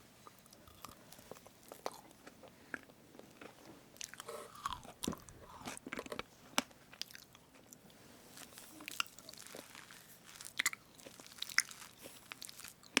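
Close-miked eating of strawberry whipped-cream cake: wet chewing and many small mouth clicks, mixed with a utensil parting the whipped cream.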